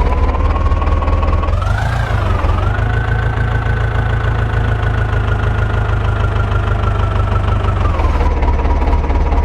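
John Deere 5055 tractor's three-cylinder diesel engine running with a fast, even knock. It is revved up about a second and a half in, held higher with a rising whine, and eased back down near the end.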